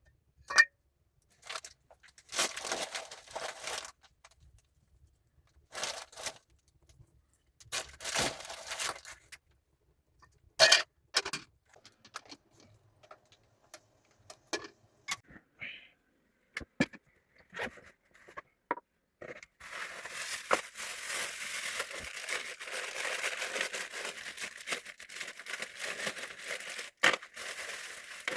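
Handling noises: several short bursts of scraping or tearing with sharp clicks between them, then about eight seconds of continuous crackly rustling or tearing near the end.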